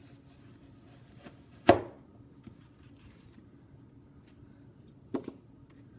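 An apple being cut on a cutting board: one sharp chop about two seconds in, then a lighter double knock near the end.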